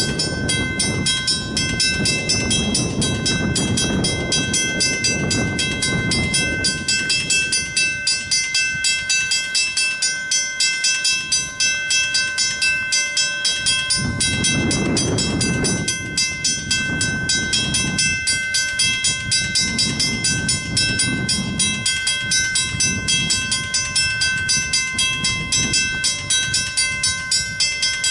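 Railroad crossing warning bell ringing steadily at about two strikes a second, with the gates down and no train coming: a false activation of the crossing signal. Underneath, a low rumbling noise swells and fades several times.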